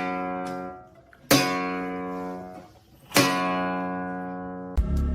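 Acoustic guitar music: three chords strummed about two seconds apart, each left to ring and fade. Near the end a different piece of music with a steady beat cuts in.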